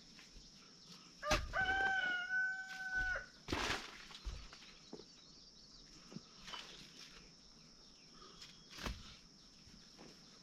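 A rooster crowing once, a call of about two seconds that stays level after a short rise, about a second in. A few sharp knocks sound around it and again near the end.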